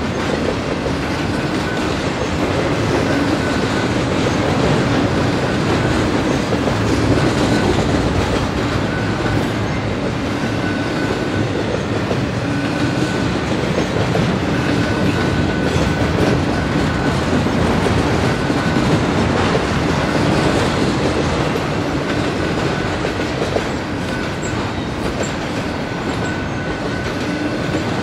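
A double-stack container freight train's well cars rolling past close by: a steady rumble of steel wheels on the rail with clickety-clack over the joints, and a faint high tone that comes and goes.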